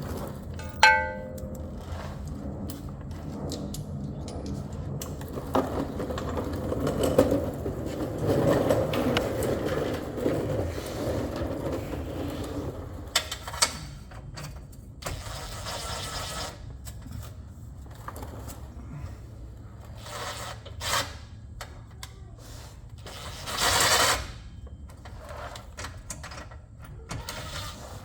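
Metal tools clinking, knocking and scraping during work under a car, with a short ringing metallic clink about a second in and a noisy burst lasting about a second near the end.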